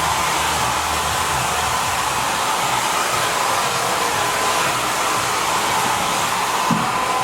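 Creates Holistic Cure Dryer Rp hair dryer blowing steadily in its moisture mode, a constant rush of air with a thin, steady whine from the motor.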